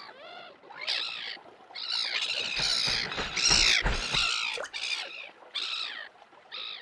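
Crows cawing repeatedly, harsh calls one after another, busiest and loudest around the middle, where a few low thuds are mixed in.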